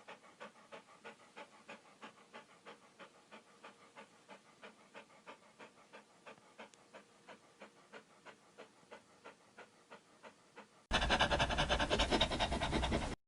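An animal panting rapidly and evenly, about four breaths a second. About eleven seconds in, a much louder, denser rhythmic sound takes over and cuts off suddenly.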